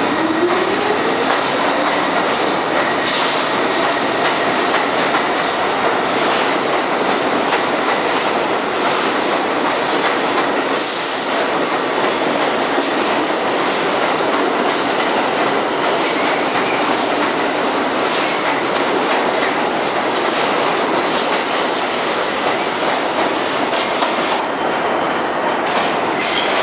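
R62 subway train pulling out of the station: a motor whine rising in pitch over the first couple of seconds, then a steady loud rush of wheels clattering over the rail joints as the cars roll past, with a brief high squeal about eleven seconds in.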